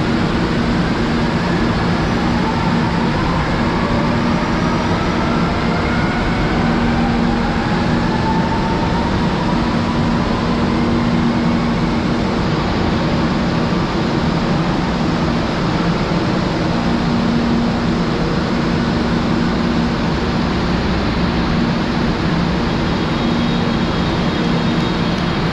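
Manila MRT Line 3 train running, heard from on board: a steady rumble and low hum, with whines that rise slowly in pitch through the first half as the traction motors gather speed.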